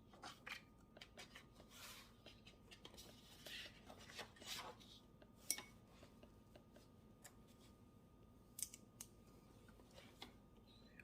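Faint desk-work sounds: a run of short scratching and rustling strokes for about five seconds, then a few scattered sharp clicks.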